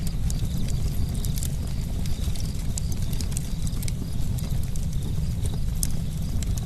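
Campfire burning, with a steady low rumble of flame and frequent sharp wood crackles and pops scattered throughout.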